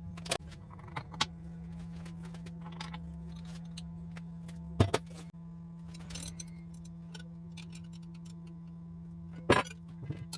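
Metal tools and parts clinking and knocking, with two sharp, louder knocks about five and nine and a half seconds in, over a steady low hum.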